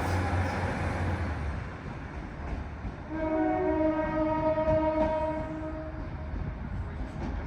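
A departing train's rumble fades away, then a train horn sounds one steady note for about three seconds, with a second, higher tone overlapping briefly at its start.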